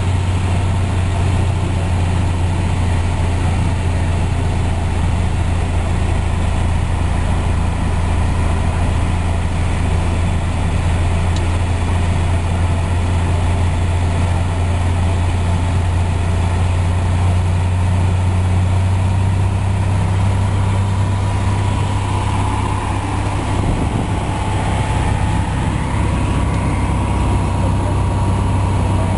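Piper Cherokee Six's single piston engine and propeller droning steadily in flight, with a low, even hum. The note shifts slightly about two-thirds of the way through.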